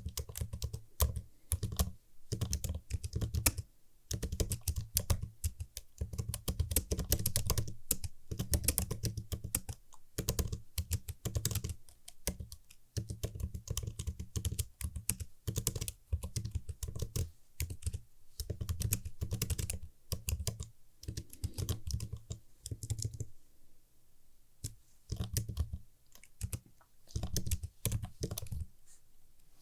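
Typing on a computer keyboard: fast runs of crisp key clicks in bursts, broken by a few short pauses.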